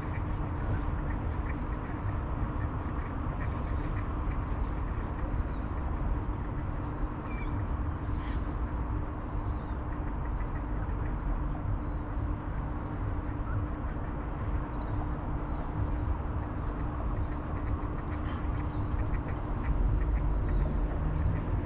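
Riverside ambience: a steady low rumble with short scattered bird calls over it, the rumble growing louder near the end.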